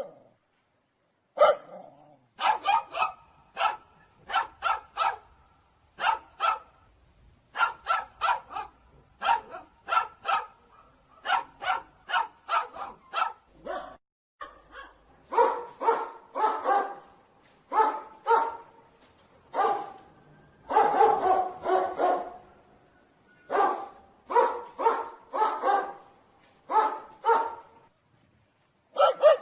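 A dog barking repeatedly in quick runs of two to five barks, with short pauses between the runs.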